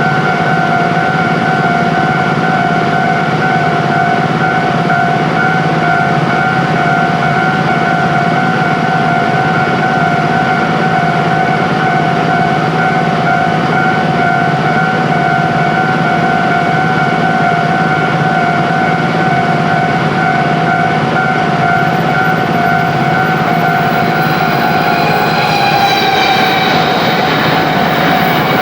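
Railway level-crossing warning signal sounding a steady, evenly pulsing ringing tone. Near the end an approaching train joins it, with falling high-pitched sounds.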